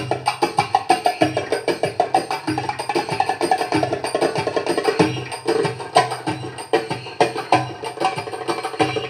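Darbuka solo: rapid, dense hand-drum strokes in a çiftetelli dance rhythm, over a steady backing of pitched accompaniment.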